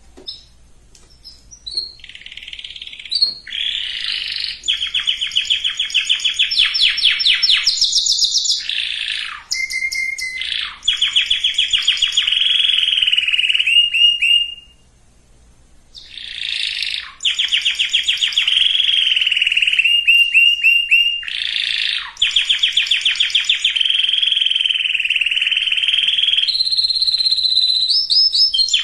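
Domestic canary singing: long rolling trills of rapidly repeated notes, phrase after phrase shifting in pitch and speed, with a short break about halfway through.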